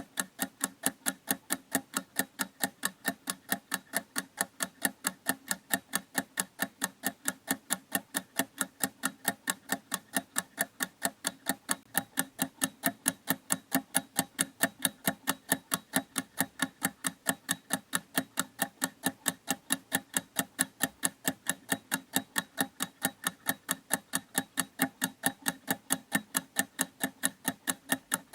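Clock ticking in a steady, even rhythm of quick, sharp ticks, several a second.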